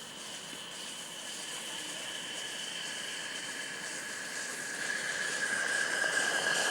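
Live-steam model steam locomotive hissing steadily, with a high steady whine over the hiss; it grows louder about five seconds in.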